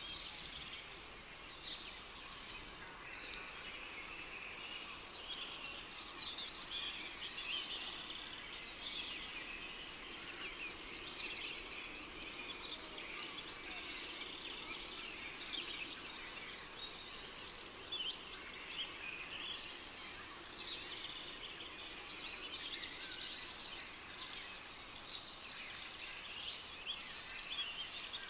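Tropical rainforest ambience: a cricket chirping in a steady high-pitched rhythm, about three chirps a second, with a pause of a second or so a couple of seconds in. Scattered bird calls and chirps sound underneath, with a brief rapid buzzing trill about six seconds in.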